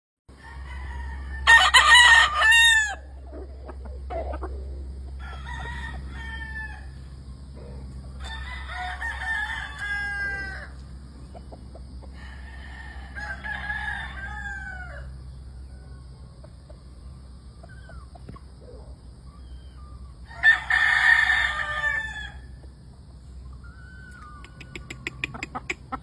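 Several gamefowl roosters crowing in turn, each crow ending on a falling note: a loud crow near the start and another about 20 seconds in, with fainter crows from farther birds between. A steady low hum runs underneath.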